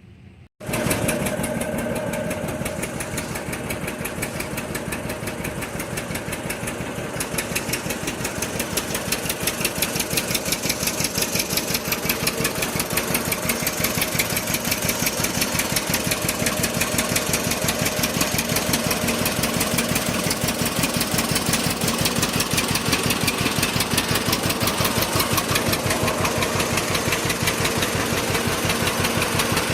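Antique tractor engine running with an even, steady firing beat. It starts abruptly about half a second in and grows slowly louder.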